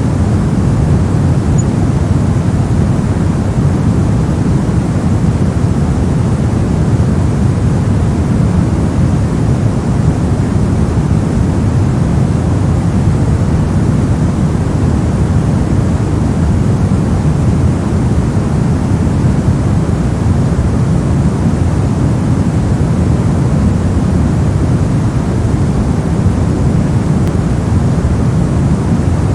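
Continuous white noise: a steady, unchanging rush with most of its weight in the low end.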